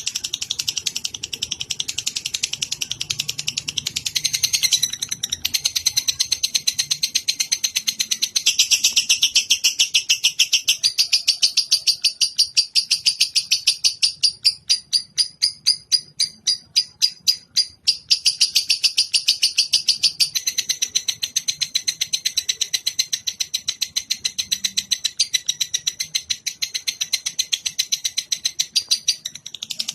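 A lovebird's long, very fast chattering trill (the 'ngekek' song used as training material for songbirds). About halfway through it slows into separate, evenly spaced chirps for a few seconds, then goes back to the fast chatter.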